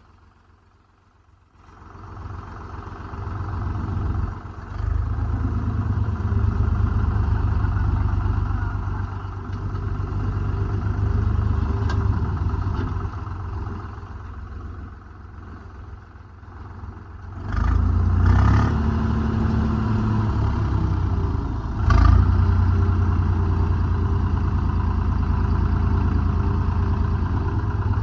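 Heavy diesel engine running, its revs rising and falling under load after a quiet second or two at the start, with loud metal clanks twice in the second half.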